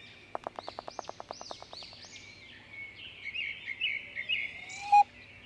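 Birds chirping and singing in repeated high arching phrases, with a fast even run of ticks, about a dozen a second, in the first two seconds. A short rising call ends in a brief loud note about five seconds in.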